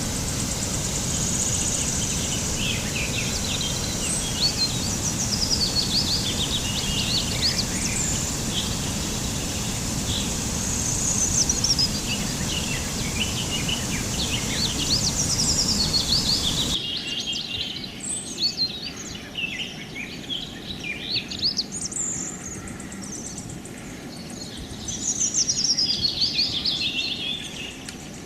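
Small birds chirping and twittering in quick, high series over a steady rushing background noise. A little past halfway the background noise drops away abruptly, leaving the chirping clearer.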